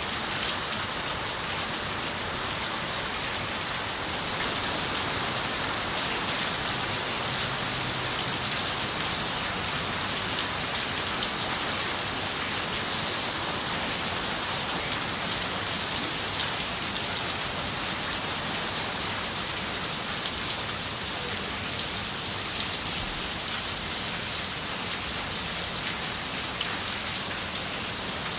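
Steady rain falling on a window, with scattered sharper raindrop ticks against the steady patter. It gets slightly louder about four seconds in and holds there.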